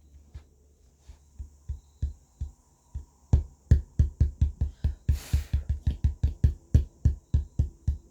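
Repeated knocking on the wooden speaker cabinet as the wood screws go back in. The knocks are sparse at first, then quicken to about four a second, with a short hiss about five seconds in.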